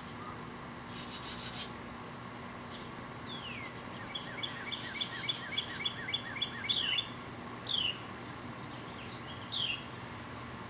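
Wild birds calling: sharp falling chirps repeated every second or two, a quick run of about a dozen chirps in the middle, and two short buzzy trills. A steady low hum lies underneath.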